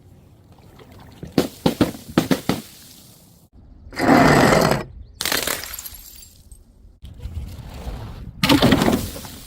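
Glass bottles breaking in a series of separate smashes: a quick clatter of cracks about a second and a half in, a louder, longer crash around four seconds in, a shorter one just after, and another crash near the end.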